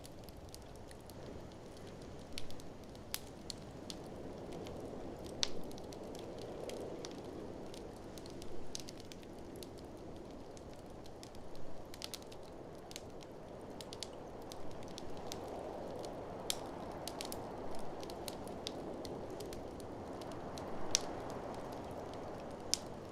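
Wood fire in a fireplace crackling, with irregular sharp pops, over a steady blizzard wind that swells and fades in slow gusts.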